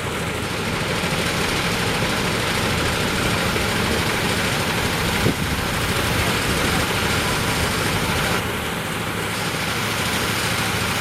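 Heavy vehicle engine running steadily under a loud, even rushing noise, with one short knock about five seconds in.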